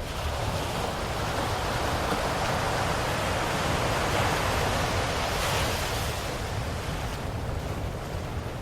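Ocean waves: one swell of surf building over the first few seconds, cresting about halfway through and slowly falling away.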